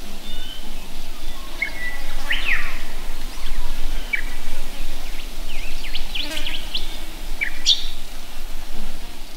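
Small birds chirping: scattered short calls and quick sweeping notes, bunching together about two thirds of the way in.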